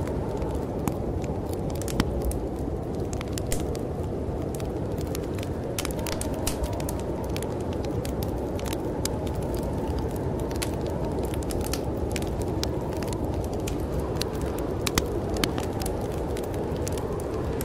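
Wood fire crackling in a fireplace, with many small irregular pops and snaps, over a steady low rush of storm wind.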